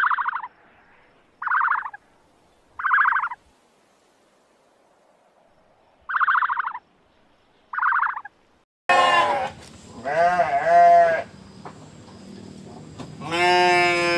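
Five short, buzzy calls, each about half a second, in the first eight seconds. Then, about nine seconds in, long wavering sheep bleats.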